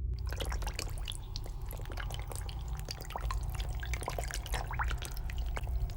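Water drops dripping, many small irregular drips in quick succession, over a low steady rumble.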